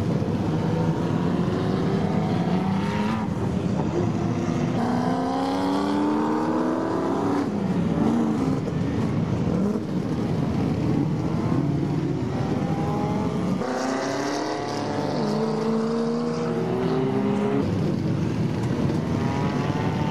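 A field of Group A and Group C touring cars driving past one after another, their engines revving and accelerating. The engine notes rise and fall and overlap.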